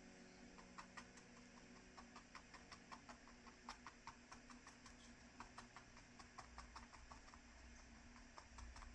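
Faint, irregular taps of a paintbrush dabbing acrylic paint onto a stretched cotton canvas, a few taps a second.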